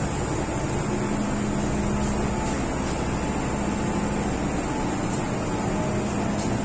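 MTR M-Train electric multiple unit running at steady speed, heard from inside the car: an even rumble of wheels and motors with a faint steady hum that fades in and out.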